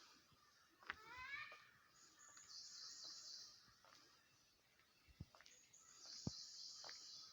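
Faint outdoor ambience: a quick run of rising bird chirps about a second in, a high steady hiss that swells twice, and a few soft knocks.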